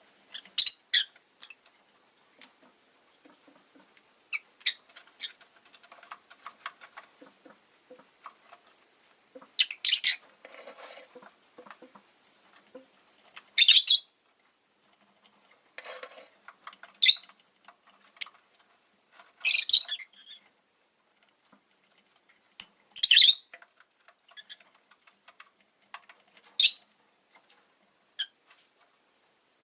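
Rosy-faced lovebirds giving short, sharp, high-pitched chirps, one every two to three seconds, with faint small clicks and rustles in between.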